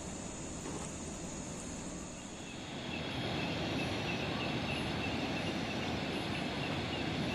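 Heavy rain falling steadily, growing louder about three seconds in. A faint short high chirp repeats a few times a second over it.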